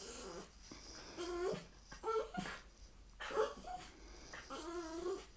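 A distressed dog whining in about four short, pitched cries that bend up and down in pitch.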